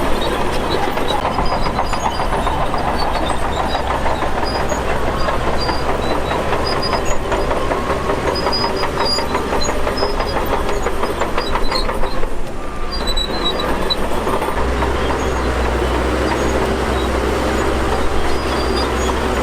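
Shantui DH17 bulldozer working, its diesel engine running under load against a dense, rapid metallic clatter of steel crawler tracks. A little past halfway the sound briefly thins, then the low engine note comes back stronger.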